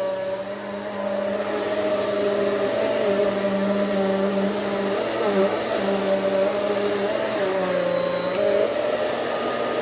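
Hoover Swivel XL Pet upright vacuum cleaner running steadily over carpet, its motor pitch dipping briefly a few times.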